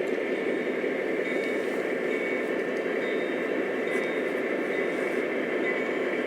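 Model train running along its track: a steady rumble of wheels and motor with a faint steady hum.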